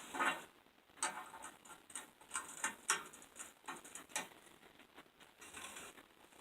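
Light, irregular clicks and taps of small steel pieces being handled on a workbench, with a brief metallic clink now and then.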